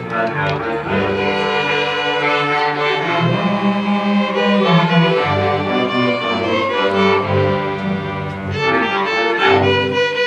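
A student string orchestra playing, violins over cellos and double basses, in sustained bowed notes that change about every second.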